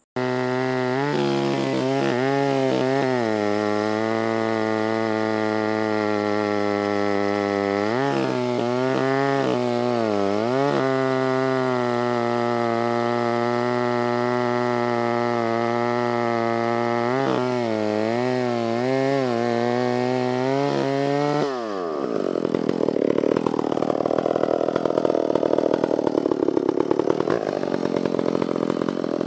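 Stihl 056 two-stroke chainsaw running at high revs, its pitch dipping briefly a few times. About three quarters of the way in the revs drop sharply and it runs rougher and noisier under load, the typical sound of the bar biting into the dead elm.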